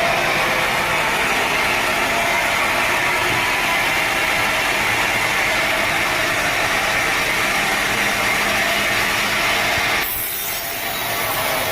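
Sawmill power saw cutting through a teak log, a steady, loud whine and rasp of the blade in the wood. About ten seconds in the sound changes abruptly to a thinner hiss.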